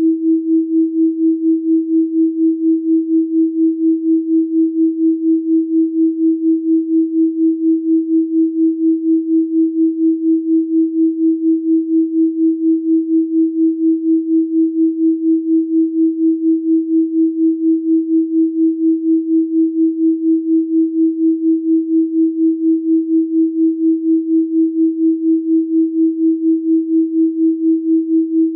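Steady electronically generated sine tone at 324 Hz, its loudness pulsing evenly about three times a second.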